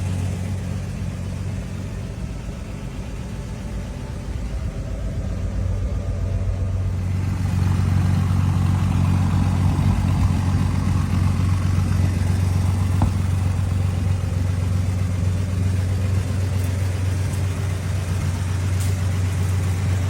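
A 1950 Chevrolet 3100's 235 inline-six with Fenton headers and straight pipes, running with a deep, steady exhaust note. It gets louder about seven seconds in.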